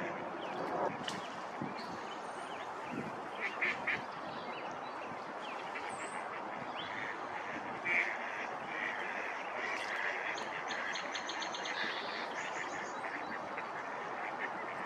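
Birds calling over a steady background hiss: short calls repeat through the clip, two louder bursts come about four and eight seconds in, and fast high trills run in the second half.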